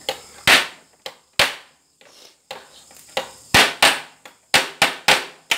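Hard crab shells being struck to crack them open: about seven sharp, irregular knocks, two near the start and a quicker cluster of blows in the second half.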